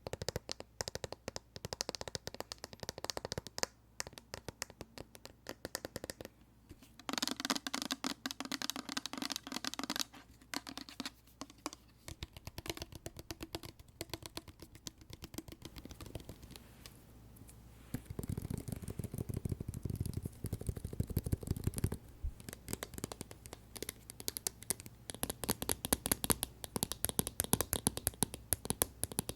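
Rapid fingertip and fingernail tapping and scratching on a plastic hand soap pump bottle. About two-thirds of the way through it gives way to tapping and pressing on tapioca slime, ending in dense, fast clicking.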